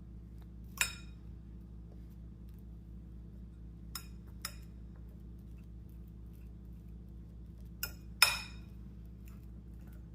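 Metal cutlery clinking against a dish while a ripe banana is mashed: five short clinks, two close together near the middle and a louder pair near the end, over a faint steady low hum.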